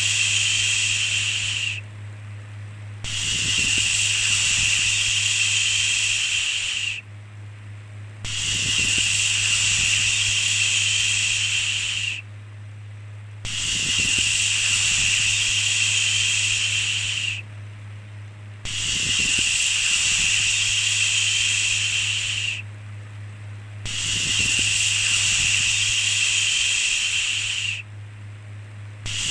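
Long 'shhh' shushing sounds repeating in a steady loop, each lasting about four seconds, with a brief pause of about a second between them. A steady low hum runs underneath.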